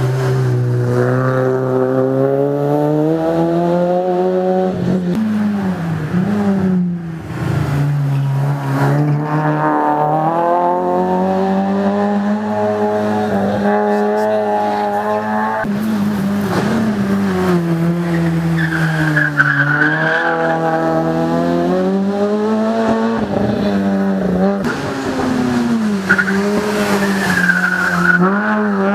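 Competition car's engine under hard acceleration on a hill-climb course, its revs rising and dropping again and again through gear changes and braking for corners. Tyres squeal briefly a couple of times in the bends.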